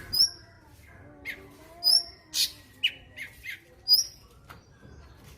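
Cucak cungkok songbird singing: sharp high whistles that drop to a short held tone, repeated about every two seconds, with quick chirps in between.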